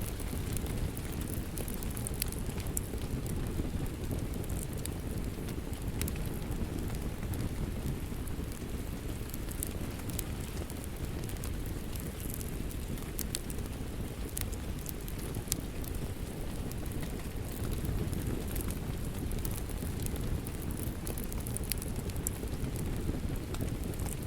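Steady rain with a crackling wood fire: a constant low rush of rain, with many small sharp crackles and pops from the fire scattered throughout.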